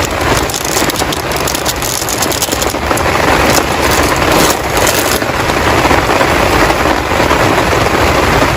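Heavy rain pouring steadily and loudly, with a low rumble running underneath.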